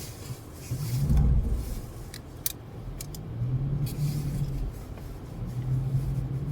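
Car driving on a snowy road, heard from inside the cabin: a steady low rumble with an engine drone that comes and goes, a louder low surge about a second in, and a few sharp clicks.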